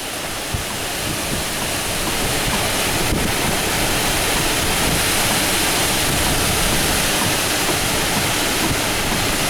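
Strong thunderstorm winds, around 50 mph, rushing through leafy trees and tearing off leaves and small branches. The steady rushing noise builds over the first couple of seconds and then holds.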